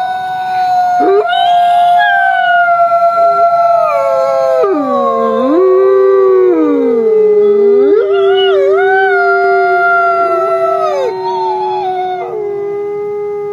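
Wolves howling together in a chorus: several long, overlapping howls at different pitches, some held steady and some sliding down and back up, with the highest voices dropping out about a second before the end.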